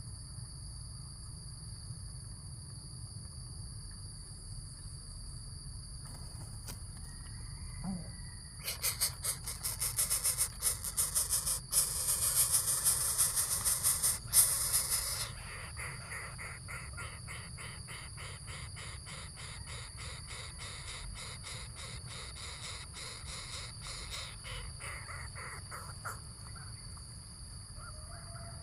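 Steady high-pitched insect drone. About nine seconds in, a loud, fast rattling buzz starts and lasts about six seconds, then breaks up into a slower train of clicks that fades away.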